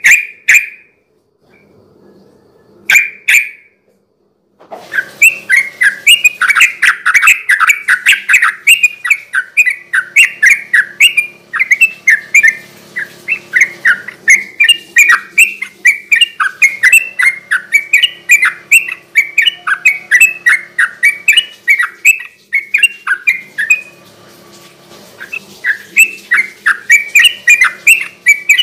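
Yellow-vented bulbul (trucukan) singing a fast, rolling, chattering song of quick bubbly notes. After two short single calls it bursts into a long unbroken run of song, pauses briefly, and starts again near the end.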